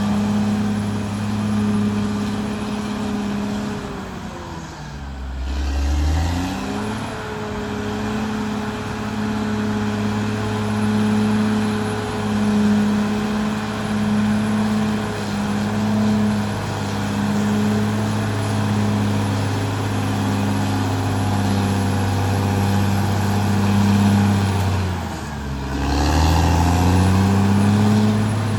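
Caterpillar D6R XL bulldozer's diesel engine running steadily under load. Its pitch sags and picks back up twice: once around four to six seconds in, and again near the end.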